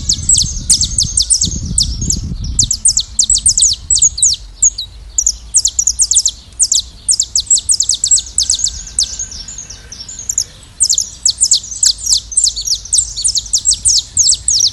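A flock of saffron finches chirping and singing together, a dense run of quick, high, overlapping chirps with hardly a break. A low rumble sits under the calls for the first two seconds or so.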